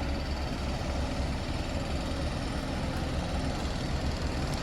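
Steady low rumble of diesel construction machinery engines running, with no clear changes.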